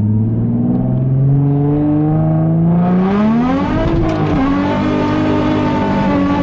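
Nissan 350Z's 3.5-litre V6 through a straight-through exhaust (test pipes in place of the catalytic converters, no resonator or muffler) under throttle: the engine note climbs slowly, rises more sharply about three seconds in, then drops near four seconds and holds a steady note.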